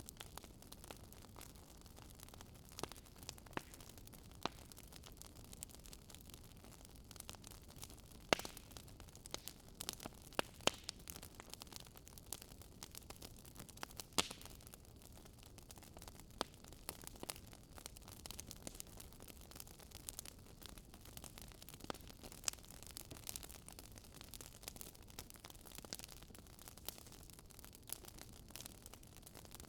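Fireplace fire crackling: irregular sharp pops and snaps over a faint, steady low hiss.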